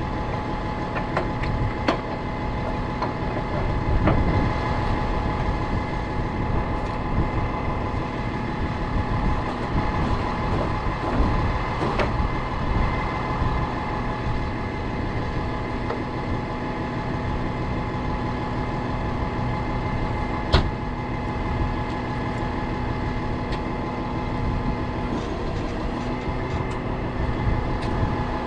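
Tow truck's engine running with its hydraulic boom and winches working, a steady whine with a few sharp metallic clanks.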